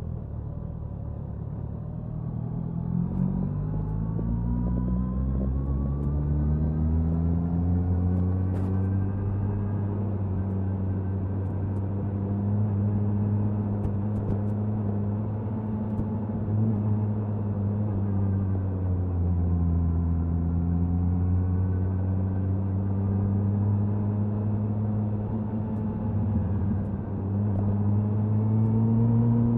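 Suzuki Hayabusa inline-four exhaust under way at speed: the engine note climbs as the bike accelerates through the first several seconds, holds at a steady cruise, eases off briefly and then climbs again near the end.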